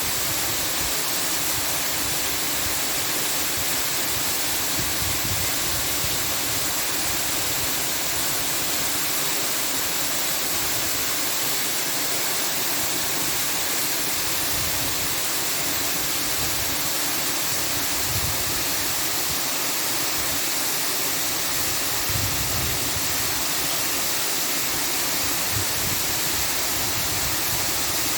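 Steady, even rushing noise that does not change or break, strongest in the upper range.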